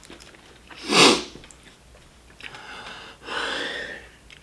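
A person blowing out breath hard: one short, sharp puff about a second in, then a longer breathy exhale past the three-second mark.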